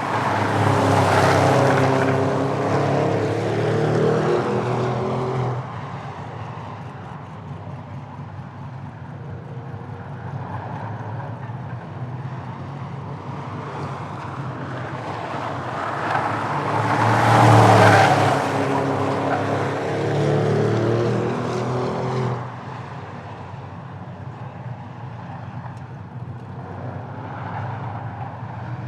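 Drag cars accelerating hard past trackside at full throttle, with the engine note sweeping as each one goes by. One car is loud at the start and drops away abruptly about five seconds in. A second builds up, is loudest a little past the middle, and cuts off suddenly about three-quarters of the way through.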